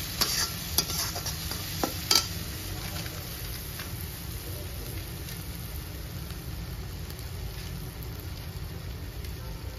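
Masala sizzling in a steel kadhai, with a few sharp clinks of a steel spatula against the pan in the first two seconds, then a steady sizzle. The masala is being fried until the oil separates, nearly done.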